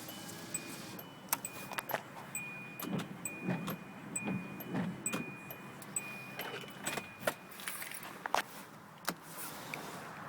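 Scattered clicks, knocks and small rattles of things being handled inside a car, like keys jangling, over a faint, evenly repeating high electronic chime that fades out about halfway through.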